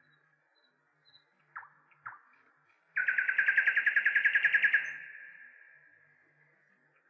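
A bird calling: two short downward-sliding notes, then a fast trill of about a dozen notes a second lasting nearly two seconds, which fades slowly in a long echo.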